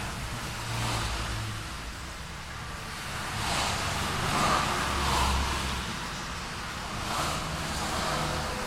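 Street traffic: cars passing one after another, their engine and tyre noise swelling and fading over a steady low rumble, the loudest pass around the middle.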